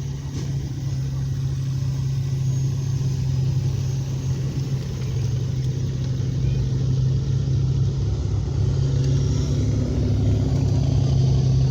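Car engine running nearby with a steady low hum, growing gradually louder.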